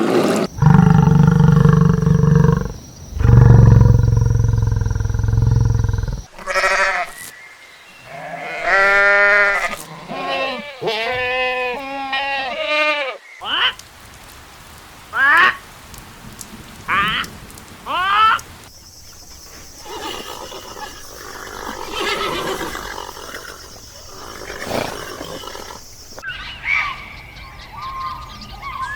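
A string of different animal calls, one after another: a loud, deep call, then a run of repeated pitched calls, then short rising chirps, then quieter calls over a background haze.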